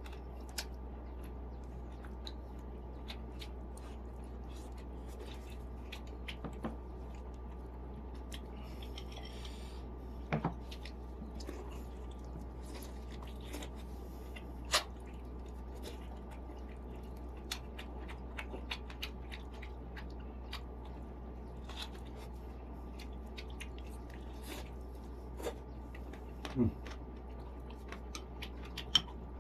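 Close-up eating sounds of a person chewing steamed chicken: soft, irregular mouth clicks and smacks, a few of them louder, over a steady low hum.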